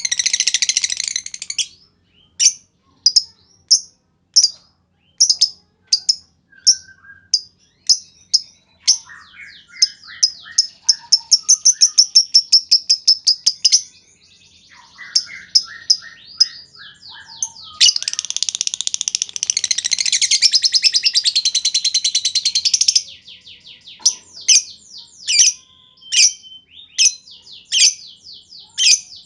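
Lovebird calling: sharp, high chirps repeated every half second or so, broken by fast rattling runs of notes, the chatter fanciers call ngetik. Past the middle it breaks into a dense, shrill trill lasting about five seconds, the long ngekek that fanciers prize.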